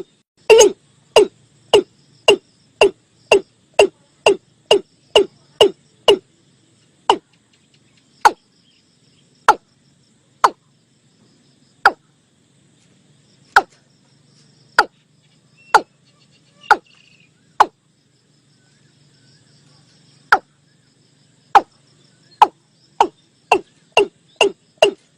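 Male watercock calling: a series of short, hollow notes, each dropping in pitch. They come about two a second at first, slow to widely spaced single notes in the middle, then quicken again near the end. It is a loud lure recording of the call.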